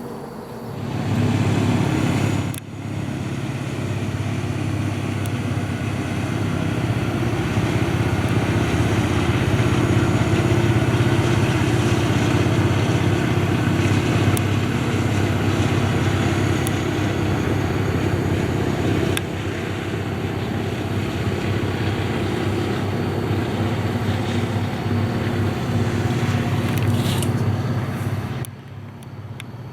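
Train running past at close range: a loud, steady rumble that lasts nearly half a minute and then cuts off sharply near the end.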